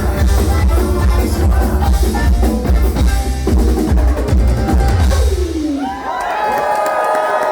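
Live bluegrass-style cover band playing a rock song, with a drum kit driving it. About five and a half seconds in the full band breaks off on a falling slide, leaving a few held notes ringing on their own.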